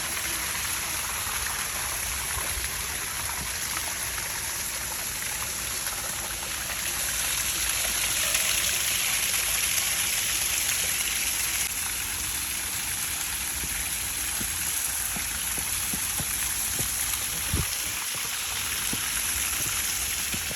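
Steady rush of running water from a stream, a little louder for a few seconds in the middle.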